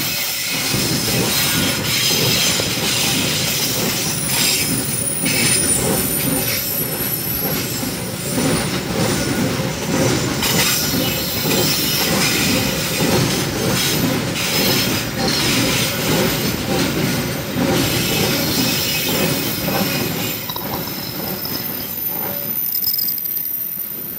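Freight train wagons rolling past close by, a steady rumble and clatter of steel wheels on rail with thin, high wheel squeals now and then. The noise eases off over the last few seconds as the end of the train goes by.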